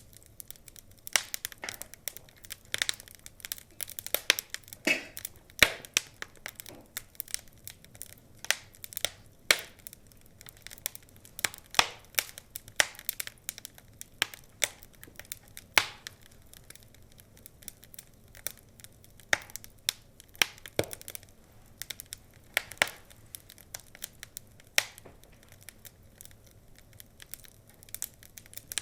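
Wood fire crackling: a stream of irregular sharp pops and snaps, some much louder than others, over a faint low hiss.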